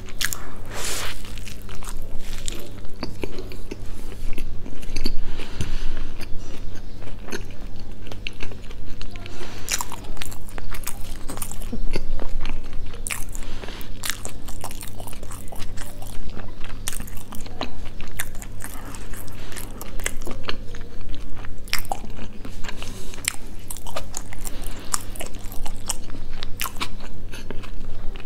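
Close-miked eating of a fried chicken burger: chewing with frequent, irregular sharp crunches of the crisp fried coating, over a steady low hum.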